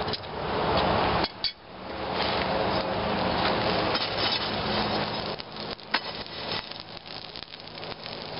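Coal forge fire rushing steadily as the railroad spike is reheated, with a few metallic clinks of the spike and tongs in the coals. The rushing drops away about a second in and then builds up again.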